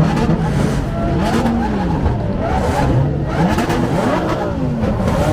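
Several car engines revving, their pitches rising and falling in overlapping sweeps, loud and continuous.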